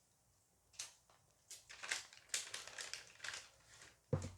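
Dice Masters booster pack being opened and handled: a run of short crinkles and clicks from the foil wrapper, cards and dice, then a sharp knock near the end.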